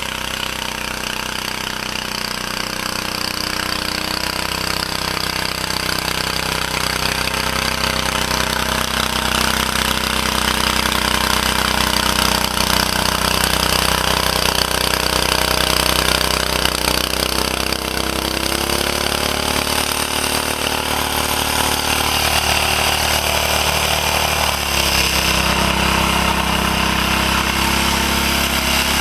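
1949 Bready walk-behind tractor's engine running steadily under load while plowing heavy wet snow; its pitch shifts about two-thirds of the way through.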